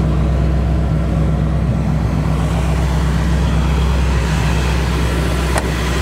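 Chevrolet 327 small-block V8 (350 hp) idling steadily through a chambered dual exhaust. One short click comes near the end.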